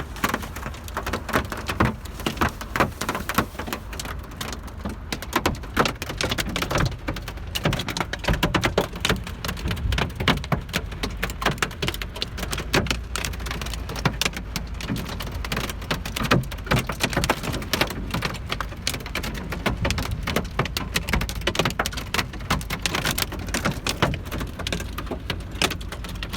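Hailstones hammering on the roof and body of a Volvo 940 wagon, heard from inside the cabin: a dense, unbroken clatter of impacts with louder single hits scattered through it.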